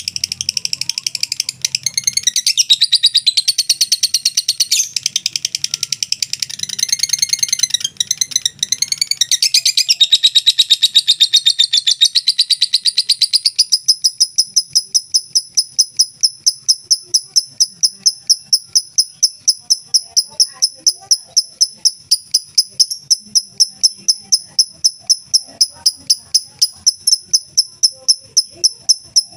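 Lovebird in a long unbroken ngekek: a rapid, high-pitched chattering trill. It is busy and varied at first, then about 14 s in settles into an even run of sharp high notes, about three a second.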